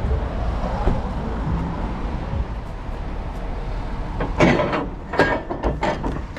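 Heavy diesel machinery running steadily with a low rumble, joined about four seconds in by a quick series of sharp metallic knocks and clanks.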